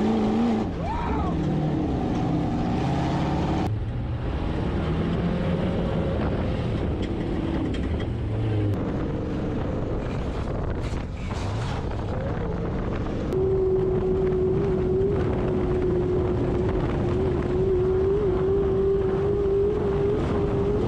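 Off-road vehicle engine running hard over sand dunes, its pitch rising and falling with the throttle, then held steady at high revs for the last third, with wind on the microphone.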